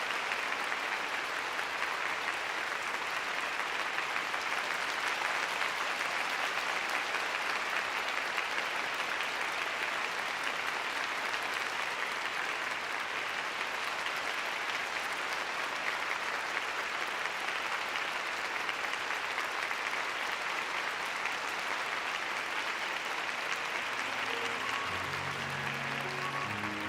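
Arena audience applauding steadily. Near the end, a few notes of music come in.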